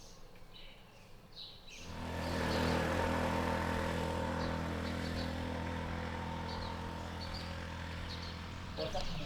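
A few faint bird chirps. About two seconds in, a steady motor hum starts and slowly fades, with birds still chirping faintly over it.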